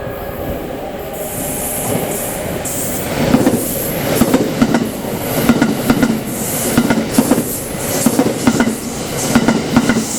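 Electric limited-express train of the 681/683 series running past, a steady running hum with the wheels knocking over rail joints in regular pairs from about three seconds in.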